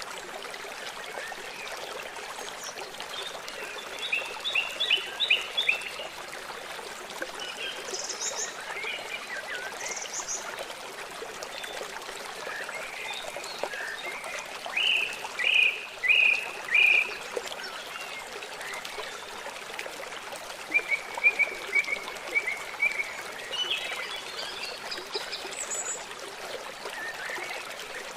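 Songbirds chirping and calling in short runs of notes over the steady rush of flowing water; the loudest is a group of four sharp notes about halfway through, followed later by a quick trill.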